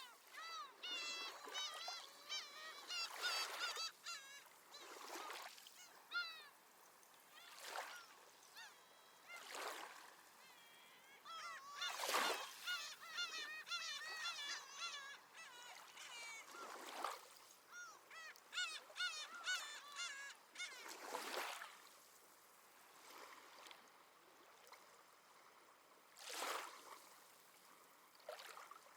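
Seabirds calling in quick series of short, high, pitched calls, mostly in the first twenty seconds, over small waves washing onto the shore every few seconds.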